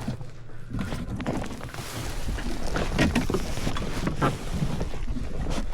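Wind buffeting the microphone: a steady low rumble and rushing noise outdoors by the river.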